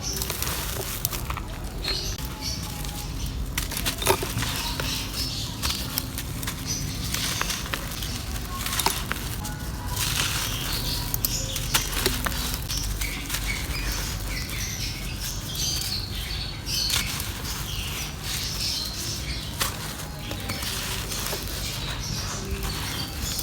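Dry clay crumbling in a clay pot: irregular crunching and rustling crackle with a few sharp snaps, over a steady low hum.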